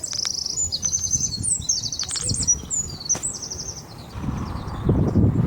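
A flock of small birds chirping and twittering in quick, overlapping high trills. About four seconds in the chirping thins and a low, steady noise comes up.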